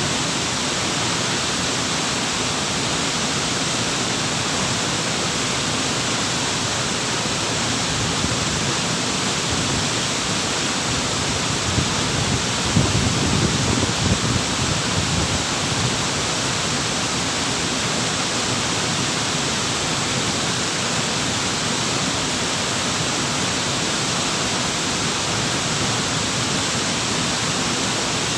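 Waterfall pouring in a steady, even rush of water, with a brief deeper surge about halfway through.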